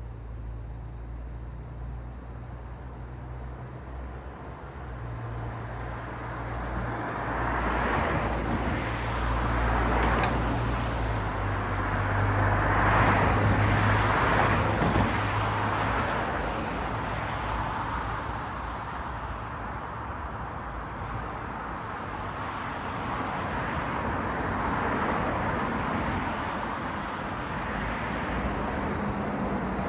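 Road traffic: a low, steady engine hum from a nearby vehicle through the first half, with passing cars whose tyre and engine noise swells to its loudest around the middle and rises again more gently near the end.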